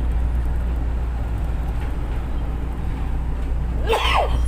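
Light-rail train running, heard inside the passenger car: a steady low rumble, with a short sharp sound that rises and falls in pitch near the end.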